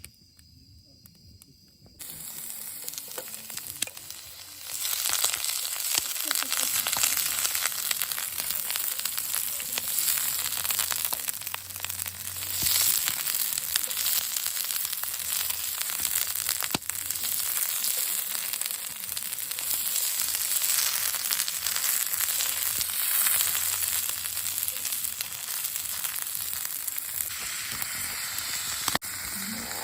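Food frying in a pan, a dense sizzle that starts about two seconds in and grows louder a couple of seconds later.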